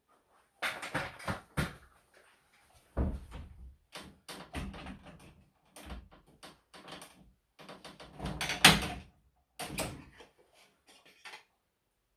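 Irregular knocks, clicks and clatter of hard parts being handled while a wall-mounted air conditioner is cleaned, with the loudest knock about two-thirds of the way in.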